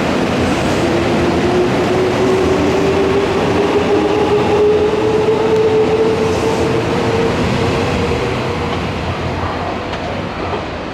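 Nankai electric train pulling away: its traction motors give a whine that rises steadily in pitch as the train gathers speed, over wheel rumble and clacking on the rails, then the sound fades near the end.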